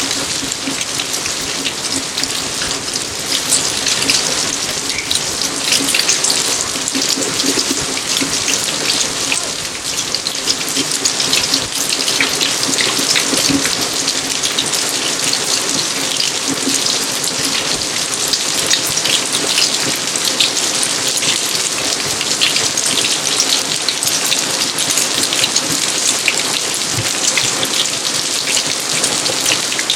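Steady rain falling on surfaces in a garden, a dense, even patter of countless drops.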